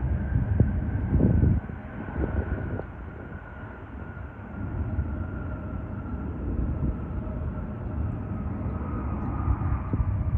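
Jet airliner engines: a low rumble, louder in the first second and a half, with a faint whine that glides slowly down in pitch.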